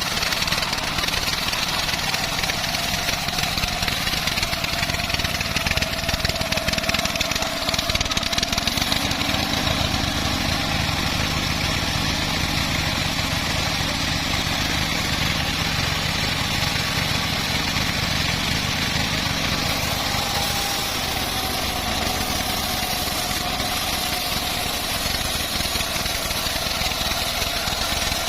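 Engine-powered homemade bandsaw mill running steadily, its low drone heavier for about ten seconds in the middle.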